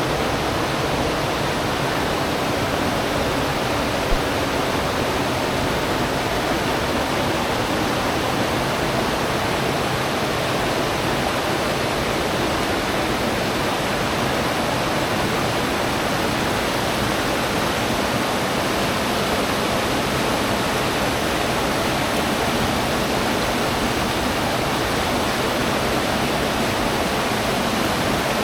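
Steady rush of river water flowing over rocks, even and unbroken, with one brief click about four seconds in.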